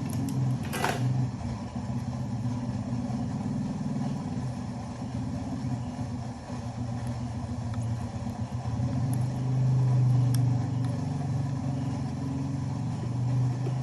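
A steady low mechanical drone, like a motor running, with one sharp click about a second in.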